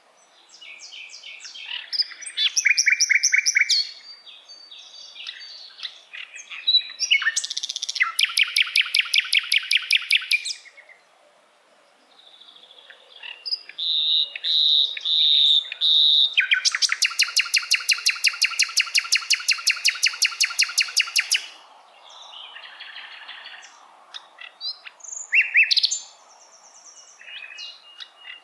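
A sikatan londo singing: varied phrases of sharp chirps and fast rattling trills, separated by short pauses, with a run of clear whistled notes about halfway and a long, fast trill of about four seconds after it.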